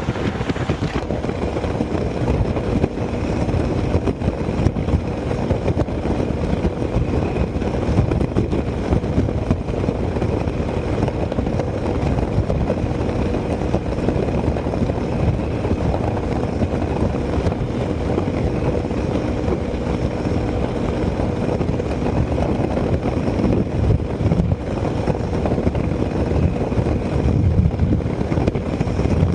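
Zontes 368G motorcycle running flat out at top speed, its engine holding steady high revs under a heavy, even rush of wind noise.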